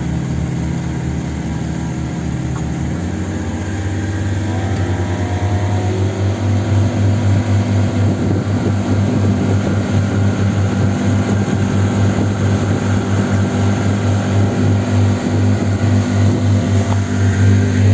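A vehicle engine running steadily. It changes note about three seconds in and grows louder, with an even pulsing in its sound later on.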